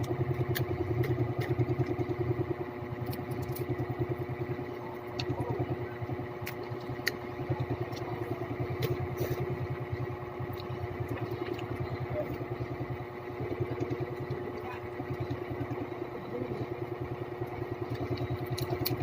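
A small motor running steadily, a continuous drone with a fast even pulse, with scattered light clicks over it.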